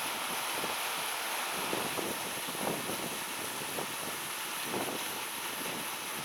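Strong typhoon wind blowing over a rice paddy: a steady rushing hiss, with brief gusts buffeting the microphone now and then.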